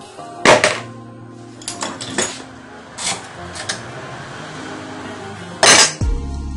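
Metal parts and tools of a sewing machine being handled during disassembly: several sharp knocks and clinks, the loudest about half a second in and again near the end, over background music.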